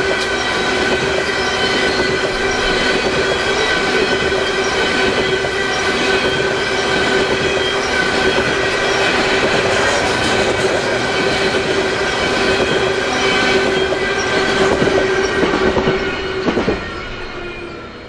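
Freight train of covered hopper cars rolling past close by: steel wheels rumble on the rail, with a steady high-pitched wheel squeal and scattered clicks at rail joints. Near the end the sound drops sharply to a fainter, more distant rumble.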